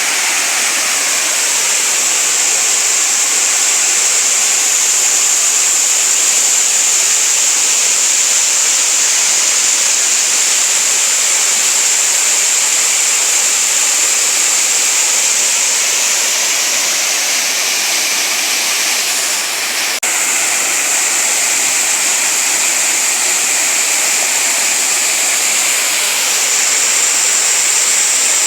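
Waterfall water falling and rushing over rocks in a steady, continuous roar of white water.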